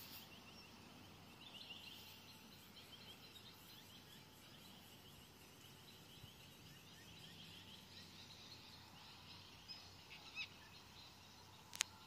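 Faint bird chirping: quick runs of short, high repeated notes, over a quiet outdoor background. A single sharp click sounds just before the end.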